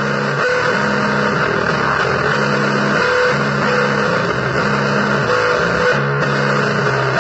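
Distorted electric guitar playing a repeating low blues riff, the same chord pattern coming round about every second and a half, with a few higher single notes, over a dense wash of noise.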